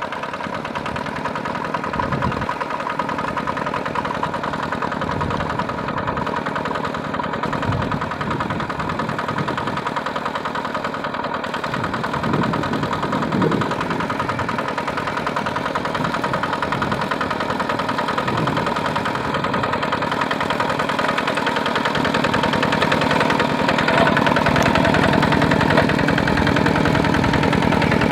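Tractor engine running steadily, growing somewhat louder over the last few seconds.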